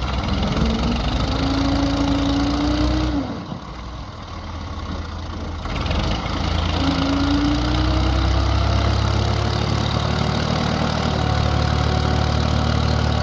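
Massey Ferguson 240 tractor's diesel engine running hard under load, its pitch rising as it revs. It eases off about three seconds in, then builds again and holds loud.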